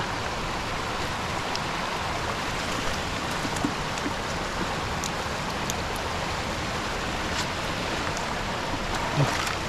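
Steady rush of running water, even and unbroken, with a few faint ticks.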